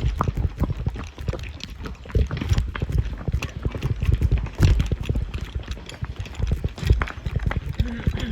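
Horses' hooves clip-clopping at a walk, an uneven run of dull strikes.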